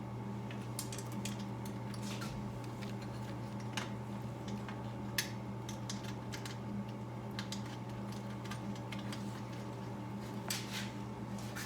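Scattered small clicks and light taps of small metal parts and hardware being handled, one sharper click about five seconds in, over a steady low hum.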